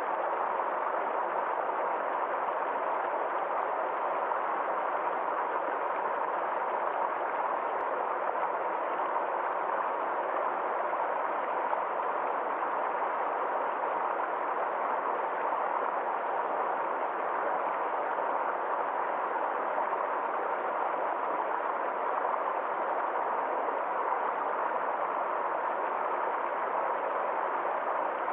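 Small forest stream flowing steadily over rocks, a continuous even rush of water with no changes.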